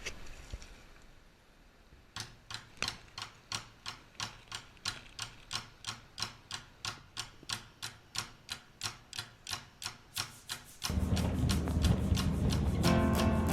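Steady, evenly spaced ticking clicks, about three a second, begin about two seconds in. Near the end, music with acoustic guitar comes in loudly.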